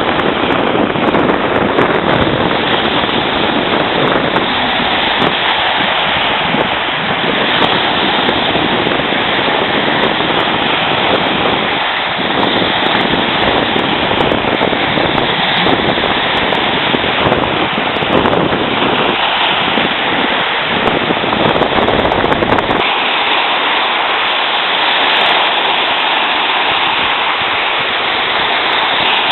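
Wind blowing hard across the microphone, with gusty low rumbling buffets. About three quarters of the way through, the rumble drops out, leaving a steadier rushing hiss.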